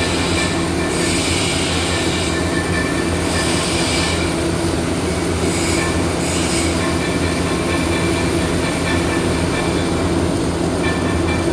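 Steady machine hum under constant workshop noise, with a louder hiss that swells and fades several times, each swell lasting about a second.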